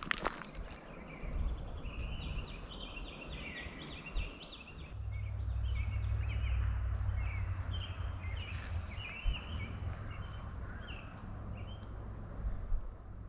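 Birds chirping in runs of short, quick high notes, over a low steady rumble that comes in about five seconds in.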